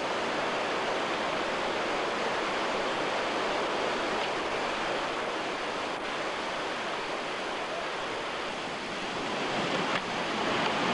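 Whitewater of a mountain river rushing steadily, growing a little louder near the end.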